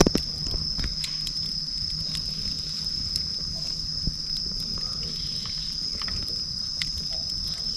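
Wood campfire crackling with scattered sharp pops, a louder one right at the start and another about four seconds in, over a steady high-pitched insect trill.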